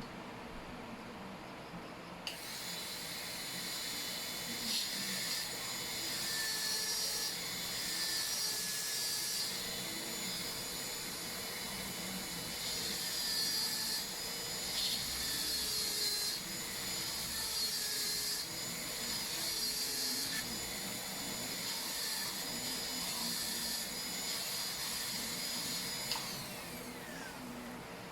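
High-speed dental handpiece (air-turbine drill) whining, starting about two seconds in, its pitch dipping again and again as the bur cuts the cavity preparation in the tooth, then spinning down with a falling whine near the end.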